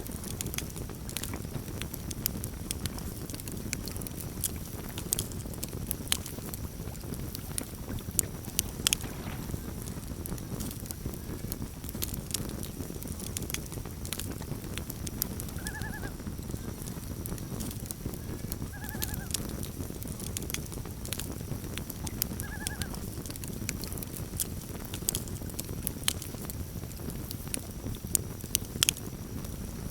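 Campfire crackling and popping over a steady low rumble of burning wood. Near the middle, three short wavering calls of a common loon, about three seconds apart.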